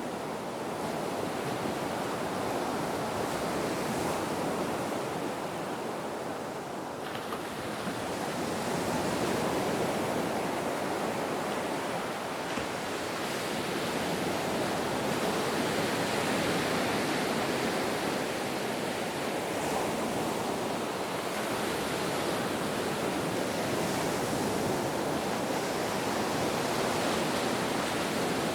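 Ocean surf washing continuously, with gentle swells in loudness every several seconds as waves break and roll in.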